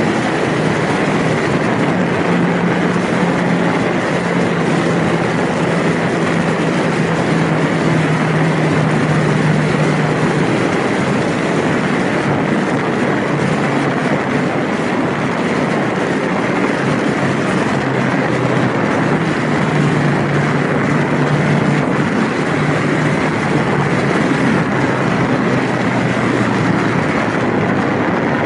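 Honda Rebel motorcycle being ridden at a steady speed, its engine hum under heavy wind and road noise on the camera microphone, the engine note easing and picking up again a couple of times.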